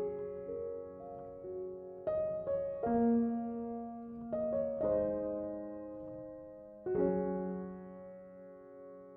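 Soft background piano music: slow chords struck every second or two and left to ring and fade.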